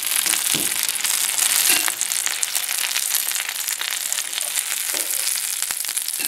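Pork patties sizzling and crackling in hot oil in a cast-iron skillet, with now and then a metal spatula scraping the pan as they are turned.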